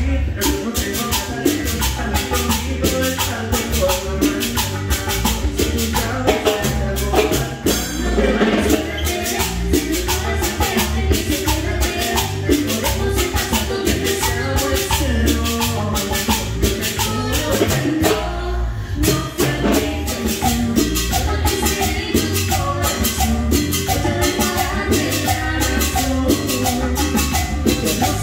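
A band playing Latin cumbia-style music: a fast, steady shaker and cymbal beat over a heavy bass line and melodic instruments. About two-thirds of the way through, the high percussion drops out for a moment, then comes back in.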